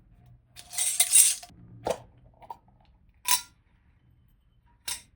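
Kitchen handling sounds: a brief scraping rustle about a second in, then four separate clinks and knocks of utensils against dishes.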